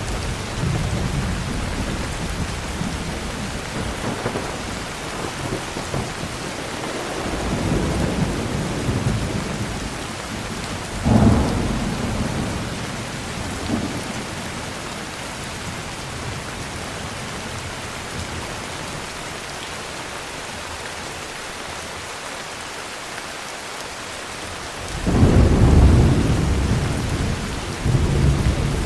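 Steady heavy rain with rolling thunder: low rumbles come and go, a sharp thunderclap breaks about a third of the way in, and a loud deep roll of thunder builds near the end.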